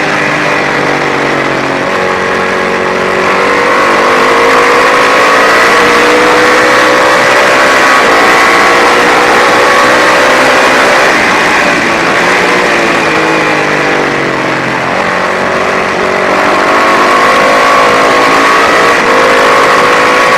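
Classic racing motorcycle engine at full song, its pitch climbing hard under acceleration, dropping sharply about halfway through and again a few seconds later, then climbing once more.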